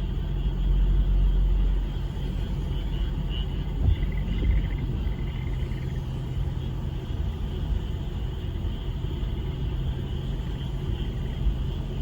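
Frogs chorusing in a steady, pulsing high-pitched band, over a louder low rumble.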